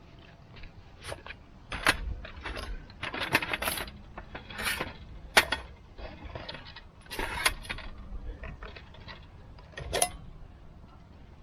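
Irregular metallic clinks and clatter, as of small metal objects being handled and knocked together.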